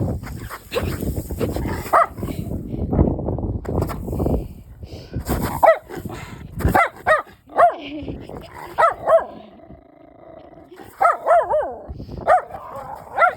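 Schnauzer barking, about ten short barks in the second half, some in quick pairs, after a few seconds of rough rumbling noise.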